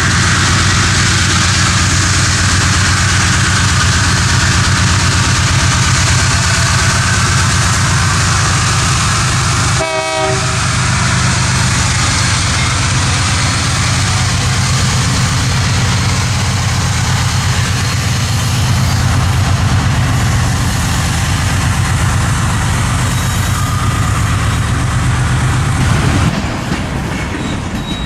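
Freight train passing close: diesel locomotive engines running and railcars rumbling over the rails, with a short horn note about ten seconds in. The sound changes and drops a little near the end.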